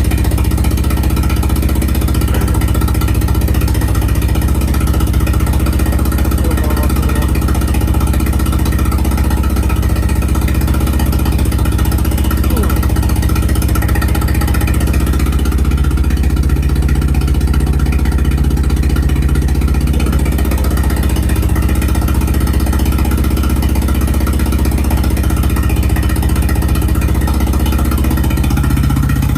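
Nissan 200SX S12 engine idling steadily while it runs on freshly uploaded mass-airflow-sensor K-constant and latency values. The idle note shifts a little about halfway through and again near the end.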